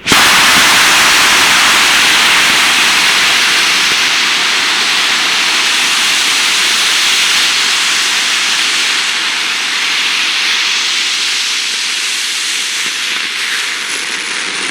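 M900 high-power rocket motor firing on a static test stand: a loud, steady rushing hiss that starts suddenly at ignition and eases off only slightly through the long burn.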